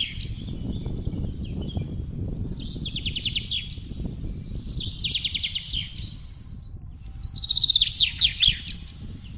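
A songbird singing short phrases of rapid trilled notes every couple of seconds, three in all, the last the loudest, over a steady low rush of wind.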